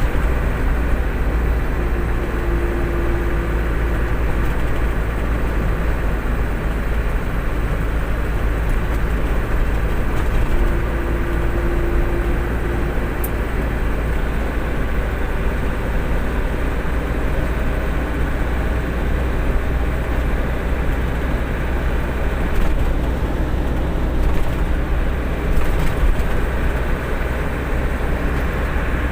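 Truck underway, its engine and road noise making a steady low rumble.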